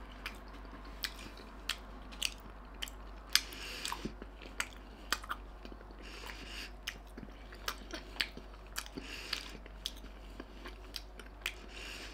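A person chewing a mouthful of chicken tortilla wrap close to the microphone: sharp mouth smacks and clicks at an irregular pace, a little under two a second.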